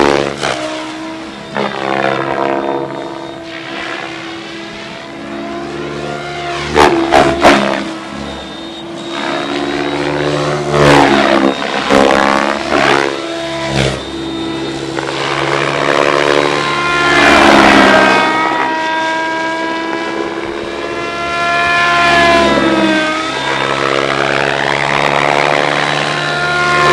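Radio-controlled 3D helicopter flying aerobatics: the rotor and motor whine rises and falls in pitch as it swoops past several times, with brief sharp bursts about seven seconds in.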